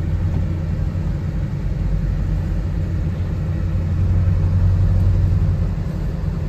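Engine of a Corsair 30-style roadster idling, heard from the driver's seat: a steady low rumble that swells a little about four seconds in.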